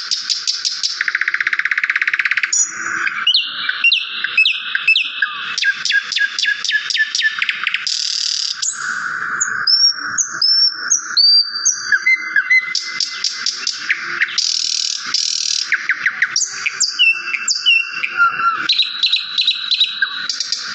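Small songbirds chirping without a break, with fast rattling trills and short gliding whistles following one another.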